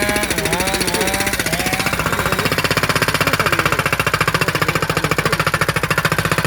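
Hydraulic breaker on a Kubota U35S mini excavator hammering rapidly into firewood logs to split them, a fast steady train of blows that gets louder about halfway through, with the excavator's engine running underneath.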